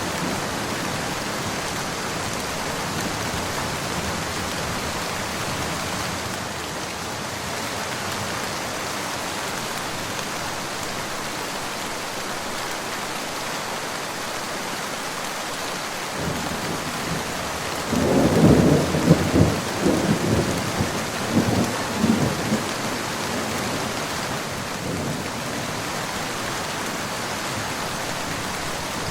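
Steady rain falling, with a rumble of thunder building about halfway through and then a loud, broken roll of thunder for several seconds before it fades back into the rain.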